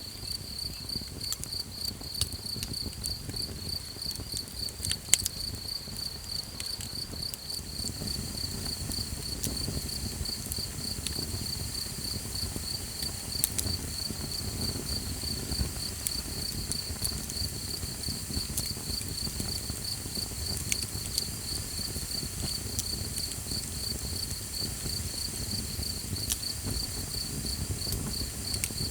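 Crickets chirping in a steady, evenly pulsed high trill, over a campfire's soft crackle with a few sharp pops, the loudest about five seconds in.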